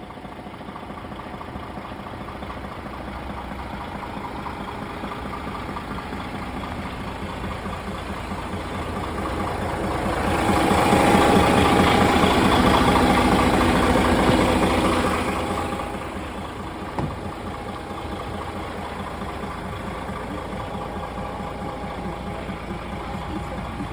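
DAF XG+ 480 semi-truck's PACCAR MX-13 straight-six diesel running at idle. It grows louder for about five seconds midway through, then settles back to a steady idle, with a brief click shortly after.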